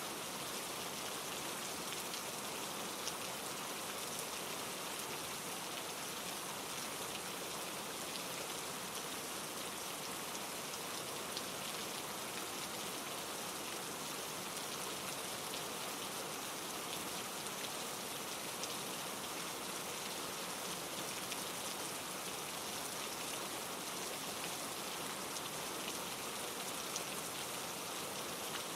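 Steady rain falling on trees, mixed with a mountain stream tumbling over granite rocks: an even, unbroken hiss with scattered small ticks of drops.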